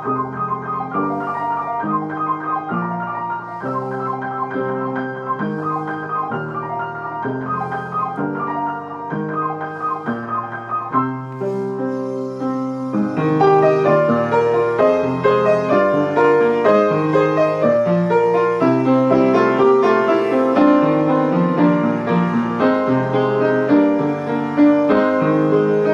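Piano playing held chords, an instrumental passage without singing, growing louder and fuller about halfway through.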